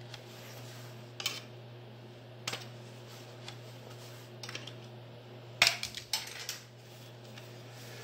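Light metallic clinks and taps, a few single knocks and then a short cluster of them, as sheet-metal pieces and hand tools are handled on a workbench, over a steady low hum.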